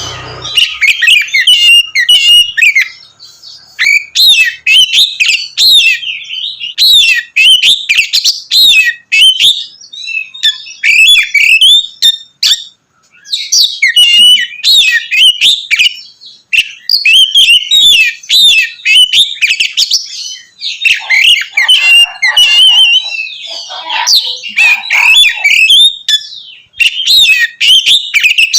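Oriental magpie-robin (kacer) singing a loud, fast, varied song of clear whistles and quick chattering notes, broken by two short pauses; some lower notes come in after the middle.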